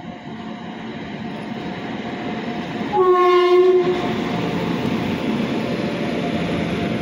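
Locomotive-hauled Indian express train running in, its rumble growing louder. About three seconds in, the locomotive sounds one horn blast lasting about a second.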